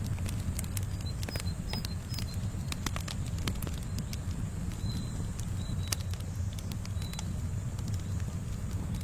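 Campfire crackling, with scattered sharp pops over a steady low rumble. A few faint short bird chirps sound through it.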